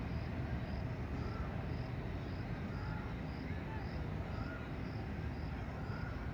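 Steady low background rumble, with a faint high-pitched chirp repeating about twice a second.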